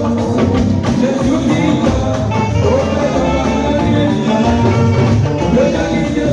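A church choir singing with instrumental accompaniment and a strong bass line, continuous music without pause.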